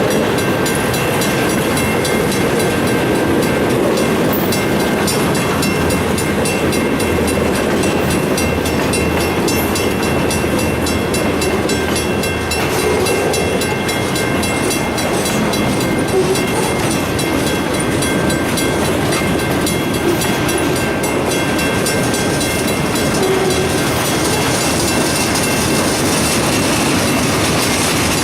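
Freight train's cars rolling past at a crossing: a steady loud rumble of steel wheels on rail with a clickety-clack of wheels over rail joints.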